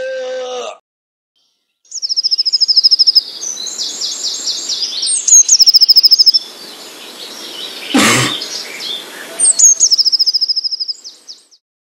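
A held pitched sound cuts off within the first second, and after a second of silence birds sing, with loud, rapid high trills repeated several times over a hiss of background noise. A short, loud noisy burst comes about eight seconds in.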